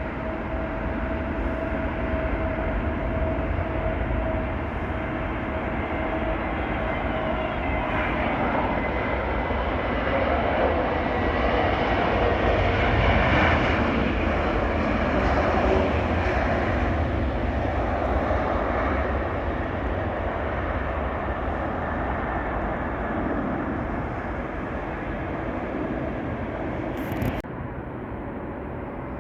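Jet airliner on final approach passing by to land: a steady engine rush swells to its loudest about halfway through, then fades. Early on, a whining engine tone slowly falls in pitch as the aircraft passes. A short click comes near the end.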